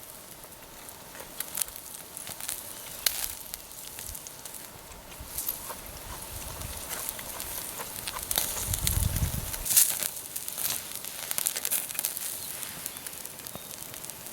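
Wood fire in a Picogrill 398 folding fire pit crackling, with irregular sharp pops throughout. There is a brief low rumble about nine seconds in.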